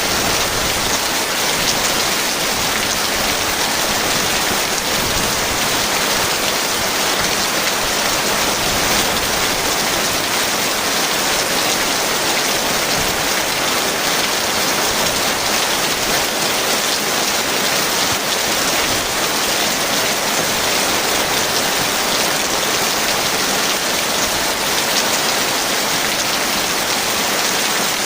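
Heavy rain falling steadily: a dense, even hiss of drops that stays level throughout, with no thunder.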